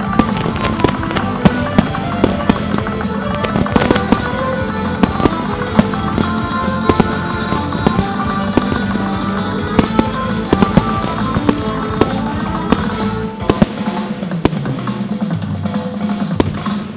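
Fireworks display: shells bursting in a rapid, irregular run of sharp bangs and crackles, over loud music.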